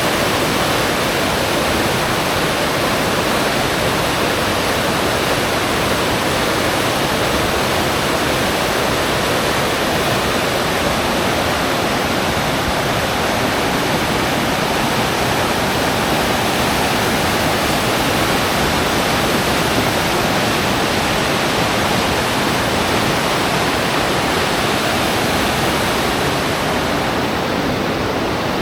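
River water rushing in a loud, steady rush.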